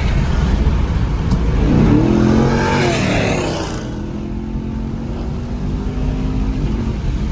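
Chevrolet Camaro SS V8 accelerating hard. The engine note climbs to a peak around the middle, then drops back to a steadier, quieter cruise.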